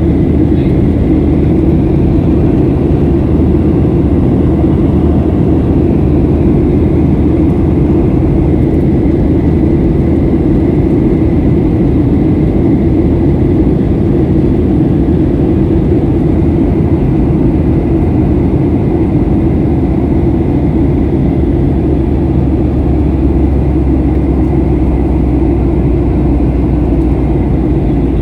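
Steady cabin noise of an airliner in flight: the engines and rushing air make an even, loud drone, deepest in the low range.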